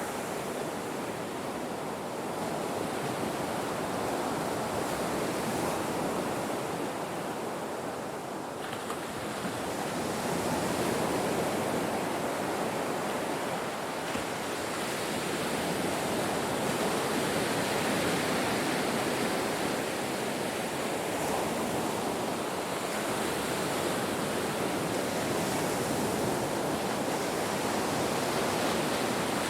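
Ocean surf washing onto a shore: a continuous rushing wash that swells and eases slowly as waves come in.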